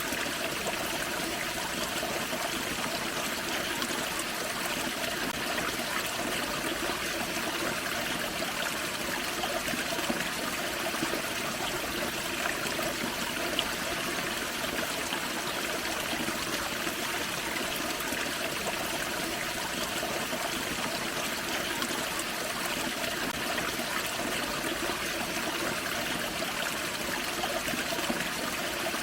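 Small forest waterfall and creek running over rocks: a steady splashing and trickling of water.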